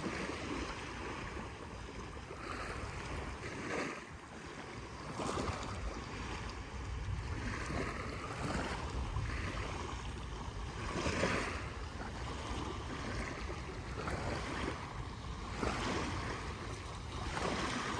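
Small waves washing onto a sandy beach, each swell of surf a second or a few apart, with wind buffeting the microphone underneath.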